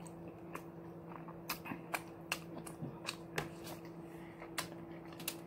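Close-miked chewing of a mouthful of quesadilla: irregular crisp clicks and mouth smacks, over a faint steady hum.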